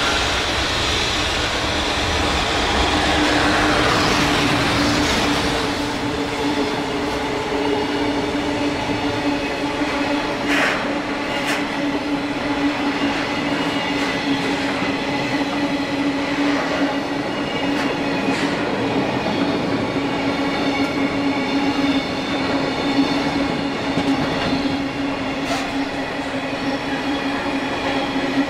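A freight train of Taki 1000 tank wagons behind an EF210 electric locomotive rolling past at speed: continuous wheel-on-rail noise with a steady hum. A whine falls in pitch over the first few seconds as the locomotive goes by, and a few sharp clacks from the wheels over rail joints come later.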